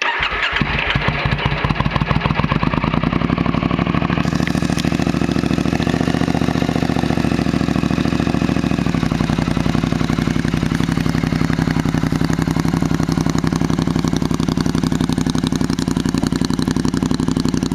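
2003 Triumph Bonneville America's 790 cc parallel-twin engine started up and catching almost at once, then idling steadily with an even pulse through D&D aftermarket slip-on silencers.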